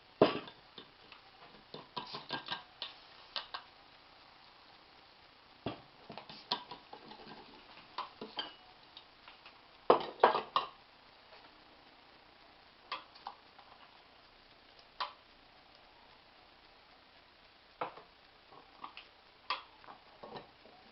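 Irregular clinks and knocks of kitchenware being handled, in small clusters with quiet gaps between; the sharpest strikes come just after the start and around ten seconds in.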